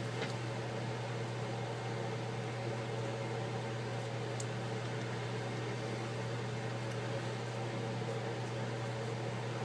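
A steady low hum with an even hiss over it, unchanging throughout: a running fan or electrical appliance.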